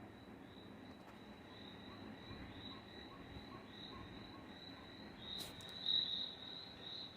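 Recorded cricket chirping played by an ocean wave projector's built-in speaker as one of its sleep-sound modes: a steady high pulsing chirp that grows louder toward the end. There is a single sharp click about five and a half seconds in.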